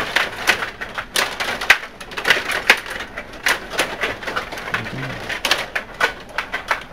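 Stiga table hockey game in play: rapid, irregular clacking and clicking as the plastic players, rods and puck strike each other and the boards, several hits a second.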